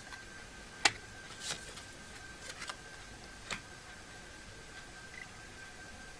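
Tarot cards being handled and laid down: a few short clicks and taps, the loudest about a second in, fading out after the first few seconds, over a faint steady high-pitched whine.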